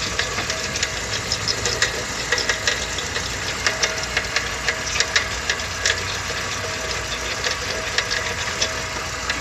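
Chevrolet Niva engine idling, with irregular sharp clicking and knocking over its steady running. The noise comes from a disintegrating water pump whose bearing crunches, which the owner puts down to a drive belt overtightened at the service.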